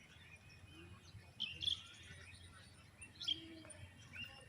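Birds chirping in two short bursts, one about a second and a half in and another past three seconds, over faint outdoor background.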